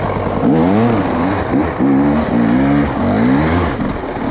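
Enduro motorcycle engine revving as it rides on snow, its pitch rising and dropping back several times as the throttle is opened and closed.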